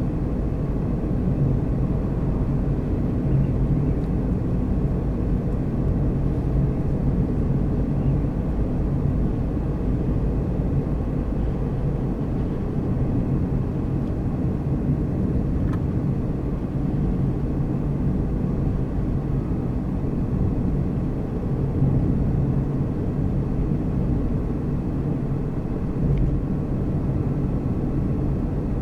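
Car driving at a steady speed: a continuous low engine hum and road rumble.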